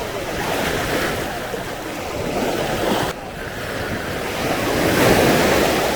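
Sea waves washing up the sandy shore. The sound dips suddenly about three seconds in, then swells to its loudest around five seconds as a wave breaks.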